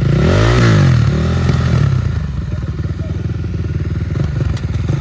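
450-class four-stroke dirt bike engine running, rising and falling in pitch about half a second in, then running steadily with a rapid, even firing beat.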